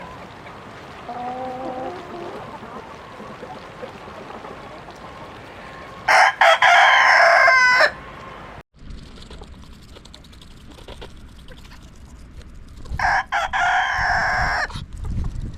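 Rooster crowing twice, each crow nearly two seconds long and ending in a bend of pitch, with a fainter chicken call before the first crow.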